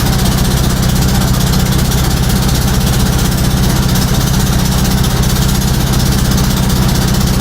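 Motorboat engine running steadily at an even speed, a constant low drone with a hiss of wind and water over it.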